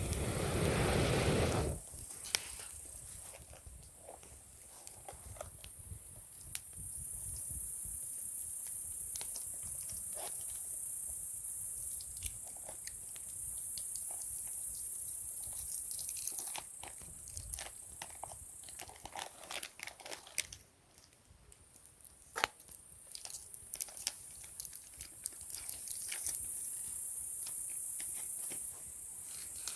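Wood campfire crackling, with scattered sharp pops and snaps. A low rushing noise fills the first couple of seconds.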